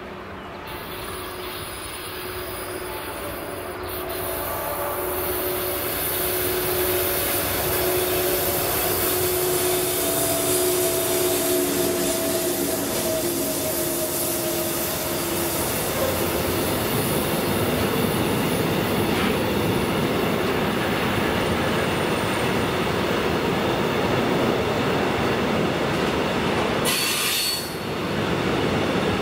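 Freight train of tank wagons behind an electric locomotive approaching and rolling past. It grows louder over the first few seconds into a steady, dense rolling of wheels on rails. A whine at several pitches runs through the first half and fades out about halfway through, and a brief hiss comes near the end.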